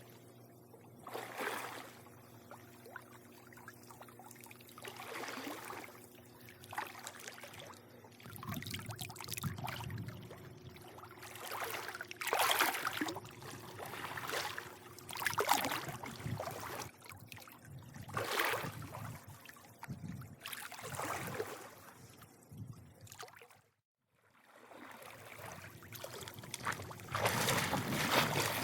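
Swimming-pool water lapping and sloshing in irregular swells every couple of seconds, over a faint steady hum. The sound drops out to silence for a moment about three-quarters of the way through.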